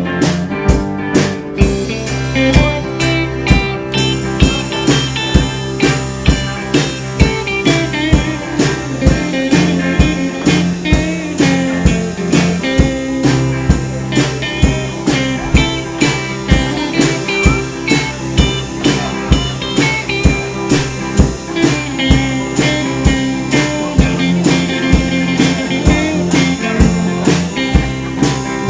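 Live rock band playing an instrumental break with electric guitars, bass and a drum kit keeping a steady beat of about two strokes a second. A lead guitar plays bending lines over the rhythm.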